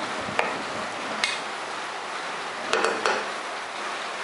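Squid frying in oil and chili paste with a steady sizzle, while a wooden spatula stirs it, knocking against the pot twice and clattering briefly about three seconds in.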